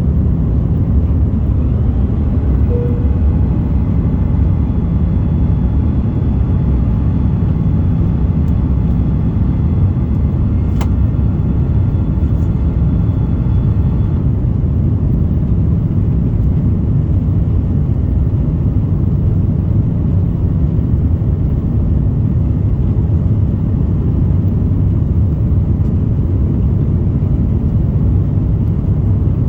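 Steady roar of an Airbus A330-200's jet engines and rushing air, heard inside the economy cabin. A faint high whine over the roar stops about halfway through.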